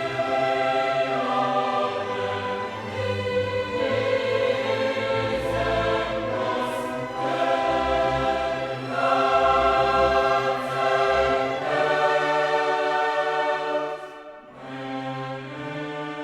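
Classical choral music: a choir singing with an orchestra. Near the end the music drops away briefly, then goes on more quietly.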